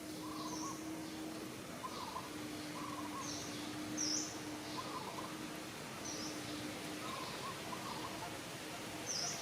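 Birds chirping: short high calls every second or so, with lower warbling notes in between, over a steady hiss of background noise.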